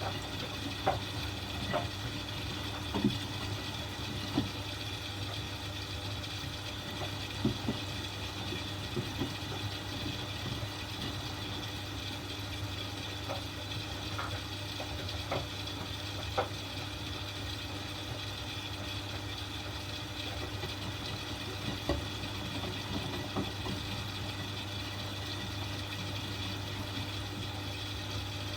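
Several Miele washing machines running together: a steady motor hum with light water noise, and scattered short knocks as laundry tumbles in the drums.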